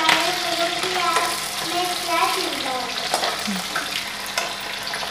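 Chopped onions sizzling in hot oil in a steel kadhai, with a ladle stirring and now and then clicking against the pan.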